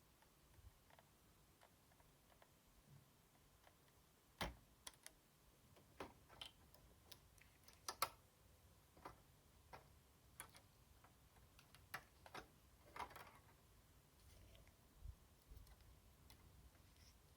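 Scattered light clicks and taps of small console parts and tools being handled while a PS4 Slim is taken apart, with sharper knocks about four and a half seconds in and again around eight seconds.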